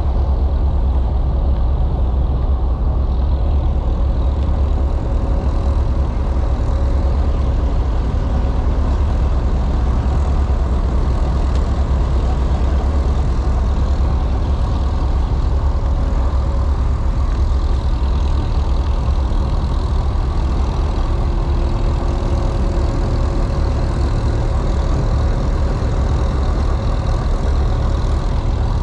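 A heavy engine running steadily at an even, deep pitch.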